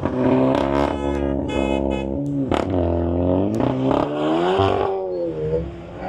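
Car engines revving, their pitch rising and falling over and over, with a few sharp cracks mixed in.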